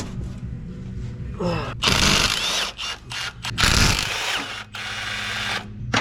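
A ratchet undoing the 10 mm 12-point bolts on a Golf R's prop shaft flange, in several short runs, the longest lasting nearly a second.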